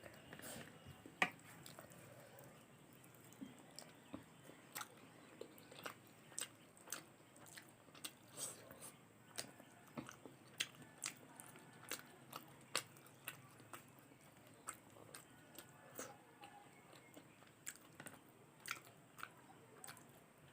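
A person eating close to the microphone: chewing and biting with short, sharp crunchy clicks about one or two a second.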